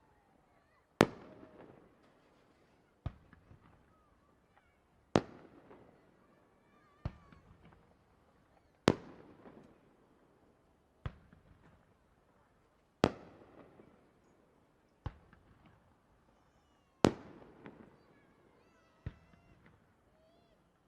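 Fireworks shells bursting overhead in a steady series, a bang about every two seconds that alternates louder and softer, each louder burst trailing off in about a second of crackle and echo. Faint crowd voices come between the bursts.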